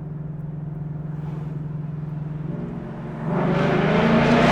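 2018 Mustang GT's 5.0 Coyote V8 running through a Corsa Xtreme active-valve exhaust, heard from the cabin with the windows open: a steady cruising drone, then about three seconds in the throttle opens and the exhaust gets much louder and rougher as the car accelerates.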